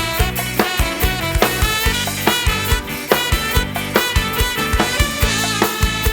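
Live band music: an instrumental passage with a quick, steady drum-kit beat under sustained instrument lines, no singing.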